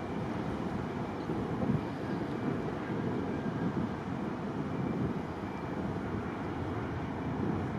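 A Boeing 737-800 airliner's jet engines running as a steady rushing noise, with gusts of wind buffeting the microphone.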